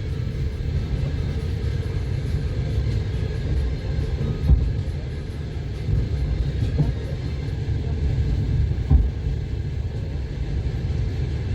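Passenger train running on the rails, a steady low rumble of wheels and carriage, with two louder knocks from the wheels, one about halfway through and one near the end.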